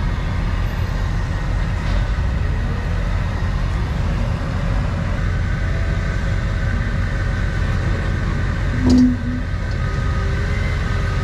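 Tow truck engine running with a steady low rumble. About nine seconds in there is a single brief, louder low tone with a click.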